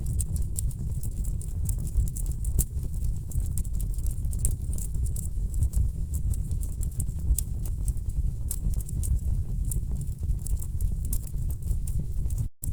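Wood fire burning in a fireplace, crackling with many irregular sharp pops and snaps over a steady low rumble. The sound cuts out for an instant near the end.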